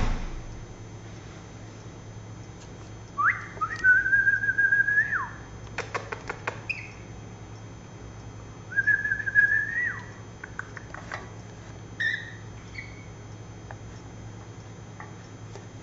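Pet lory parrot whistling: two long, steady, pure whistles, each rising at the start and dropping at the end, with a quick run of sharp clicks between them and a few short chirps later, over a steady low hum.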